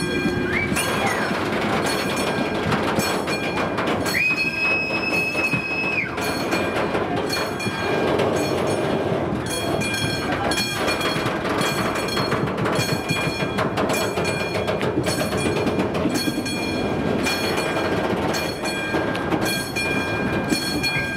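Train rolling slowly over a street level crossing, goods wagons and then a TGV high-speed set, with steady wheel and running noise. Over it the crossing's warning bell rings at an even, steady beat. A high steady tone sounds for about two seconds a few seconds in.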